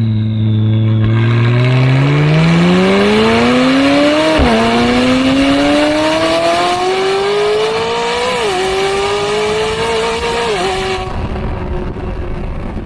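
McLaren 570S twin-turbo V8 through an FI full exhaust with catless downpipes, accelerating hard through the gears: the revs climb from low, with three quick upshifts about four and a half, eight and a half and ten and a half seconds in. The throttle eases off near the end.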